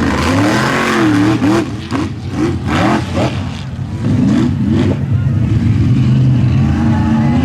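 Mud-bog race truck's engine revving hard, its pitch swinging up and down with the throttle, with a run of sharp cracks in the middle, then holding a steadier high-revving note near the end.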